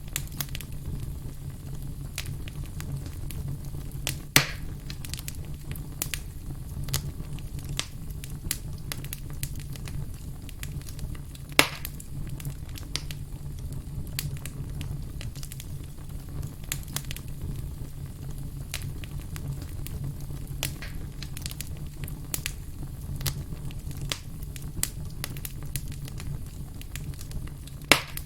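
Wood campfire crackling: a constant scatter of sharp snaps and pops, three of them louder, about four seconds in, near the middle and at the very end, over a steady low rumble.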